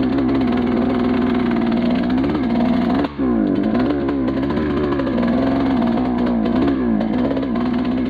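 Suzuki RM125 two-stroke single-cylinder dirt bike engine running under way at steady part-throttle, its pitch wavering up and down, with a brief dropout about three seconds in. It is running rough and won't clean out into the power band, which the owner blames on cheap gas-station premix oil.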